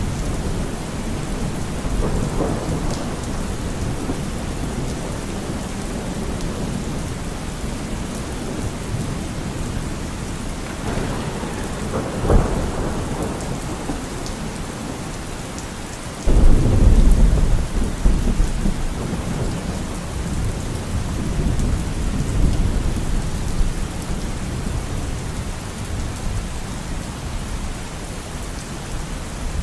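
Steady rain falling, with distant rolls of thunder. About halfway through, a louder clap of thunder breaks in suddenly and rumbles on for several seconds.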